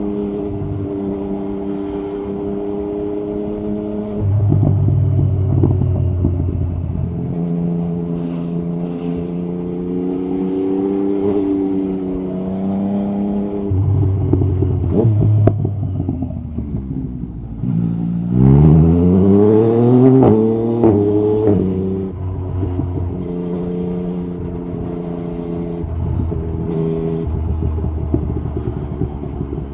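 Yamaha MT-09 SP's inline-three engine through an Akrapovic carbon exhaust with the dB killer removed, running at a few steady speeds with shifts in pitch between them. About two-thirds of the way through it revs up hard in a loud rising sweep, then drops back to a steadier note.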